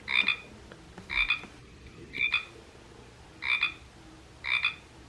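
Sound box of a Wild Republic plush Pacific tree frog playing a recorded Pacific tree frog call: five short croaks about a second apart.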